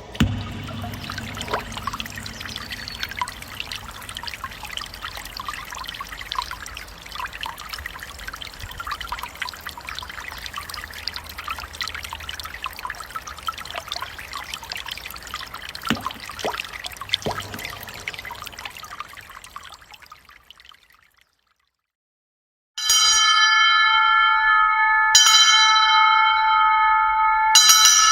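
Water trickling and splashing with many small drips, fading out about twenty seconds in. After a short silence, a bell is struck three times, each strike ringing on with several clear tones.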